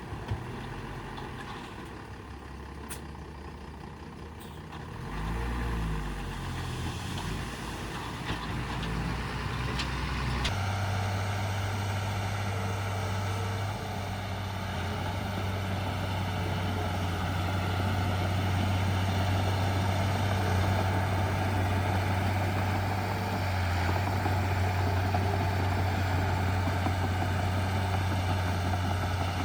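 Heavy diesel construction machinery engines running: a low hum that swells about five seconds in, then turns abruptly into a louder, steady engine note from about ten seconds on.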